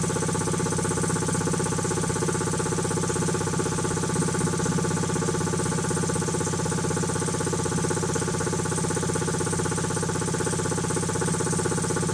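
Quincy QT-5 two-stage air compressor pump running steadily on its first run after a rebuild, with a fast, even pulsing beat.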